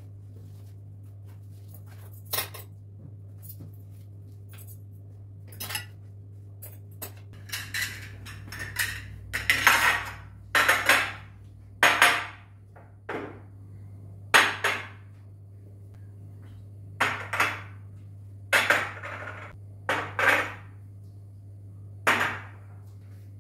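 Dishes and cutlery clinking and clattering as they are handled and set down, in a string of separate knocks that come thickest around the middle.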